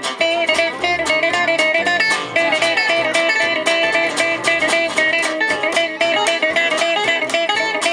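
Gypsy-jazz band playing an instrumental break live: guitars strumming a steady, even beat with a melody line played over it.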